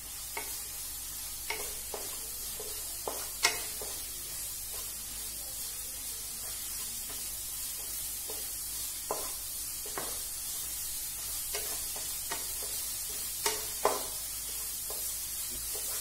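Sliced onions and tomatoes sizzling in oil in a non-stick wok while a wooden spatula stirs and scrapes them, with scattered taps of the spatula on the pan; the loudest knock comes about three and a half seconds in. The onions are being sautéed until the tomato softens.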